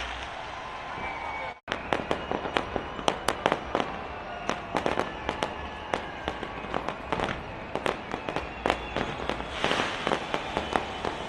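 Fireworks going off: a rapid, irregular run of sharp bangs and crackling pops. The sound drops out for a moment about a second and a half in before the bangs resume.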